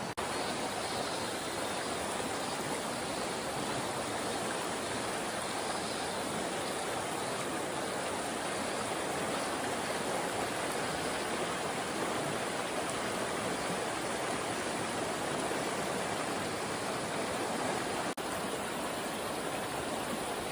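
Steady rushing of water in the mountain headwaters of the Shimanto River, a stream pouring over rocks, with a momentary break about eighteen seconds in.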